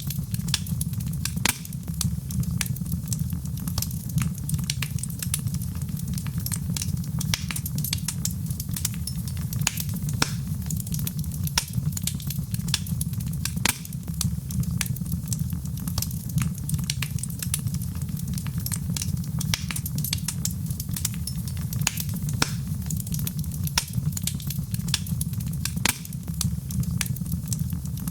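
Wood fire burning in a fireplace: a steady low rumble of flames under frequent, irregular sharp crackles and pops.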